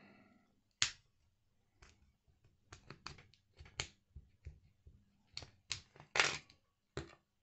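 Plastic spudger scraping and clicking against a glued lithium-ion cell and its plastic pack casing as it breaks the glue: a series of short, irregular clicks and scrapes, the strongest about a second in and about six seconds in.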